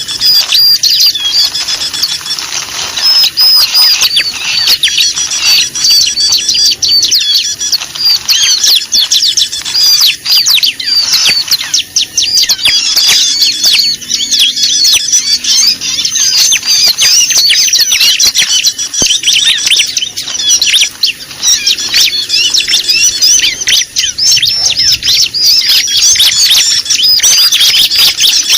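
Noisy, agitated chorus of many small songbirds chirping and calling at once, dense overlapping short chirps with no break. This is the kind of bird commotion played as a lure to attract small birds.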